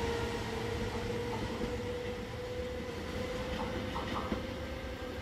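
Regional train pushed by an E464 electric locomotive pulling away, with a steady whine over the rumble of wheels on rail that slowly fades as it recedes.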